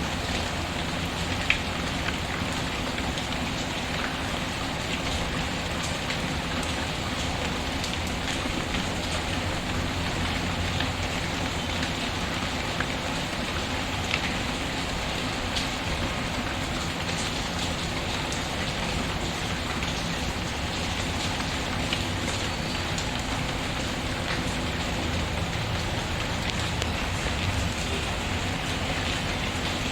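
Steady rain falling, mixed with a crackling wood fire that adds scattered sharp pops; the loudest pop comes about a second and a half in.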